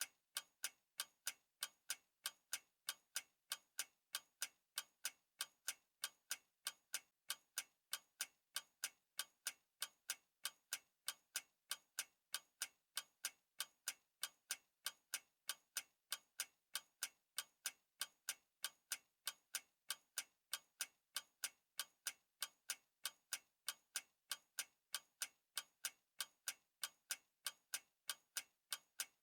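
Clock ticking: a steady, even run of sharp ticks, several a second.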